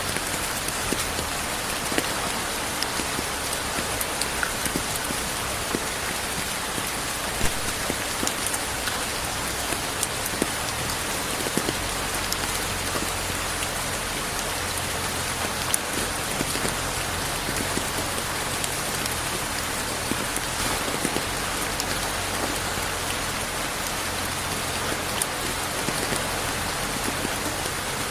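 Steady rain falling on a surface, an even hiss with many scattered drop ticks, without thunder.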